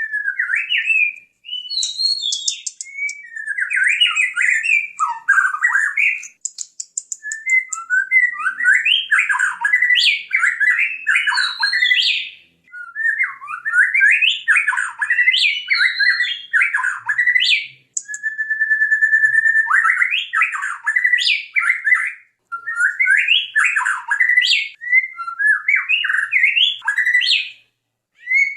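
White-rumped shama (murai batu) in full song: long, varied phrases of rich, fast whistles that leap up and down, with thin high rattling notes above them, broken by brief pauses every few seconds.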